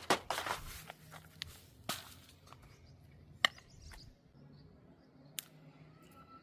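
Hands working kite-making materials: rustling in the first second, then scattered sharp clicks and taps, the loudest about halfway through.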